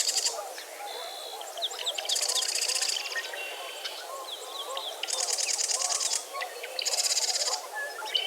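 Dawn chorus of many birds: a constant chatter of lower calls underneath, with loud, high, buzzy trills breaking in about three times, around two, five and seven seconds in, and scattered short whistles and chips between them.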